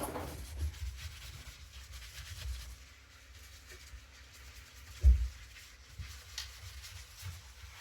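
Faint rubbing and handling noises from cleaning a Hotpoint appliance door by hand, with a single low thump about five seconds in, over a low background rumble.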